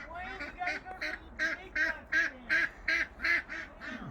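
Domestic ducks quacking in a quick, even series, about two or three quacks a second.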